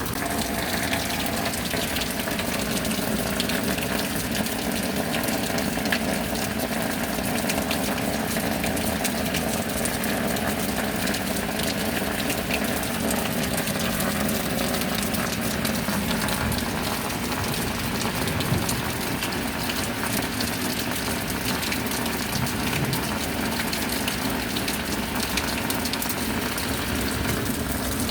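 Steady heavy rain with a continuous rush of running, gushing water.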